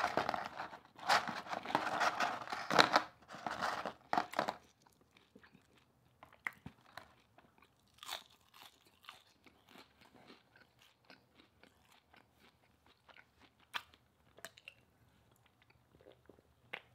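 A person chewing and crunching food close to the microphone: loud crunchy bites and chewing for the first four or five seconds, then quieter chewing with small mouth clicks.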